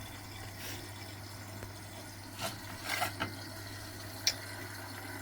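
Vintage Frigidaire Super Deluxe Automatic 50 front-loading washing machine mid-wash: a steady low motor hum with water and laundry sloshing in the tumbling drum, and a few short knocks or splashes.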